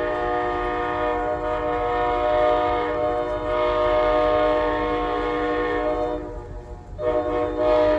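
Locomotive air horn sounding a long, steady chord that breaks off for about a second near the end and then comes back in short blasts, as the engineer plays the horn for the holiday train.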